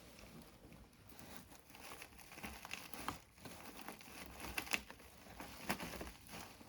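Dry model trees and bushes being handled and set in place by hand: faint, irregular crinkling and rustling with small scattered ticks.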